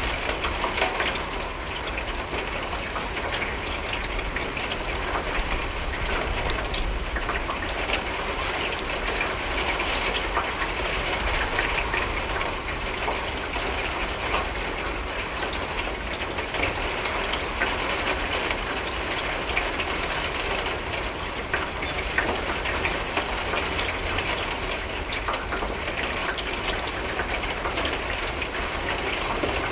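Steady rain on a window: an even hiss of rainfall with many small drop hits ticking against the glass.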